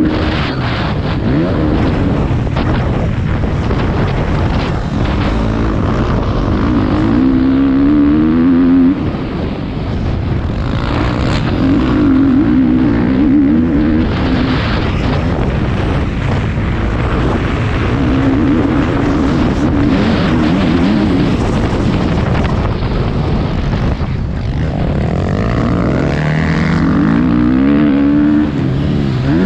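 Motocross bike engine revving hard, its pitch climbing and dropping again and again through the gears, with wind rushing over a helmet-mounted camera.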